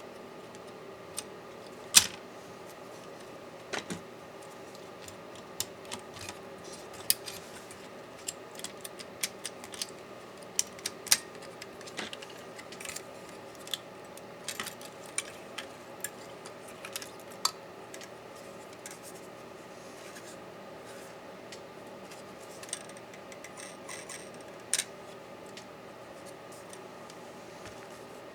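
Irregular small clicks and taps of hand tools and small laptop parts being handled during disassembly. They come thick and fast in the middle and thin out near the end, over a steady low hum.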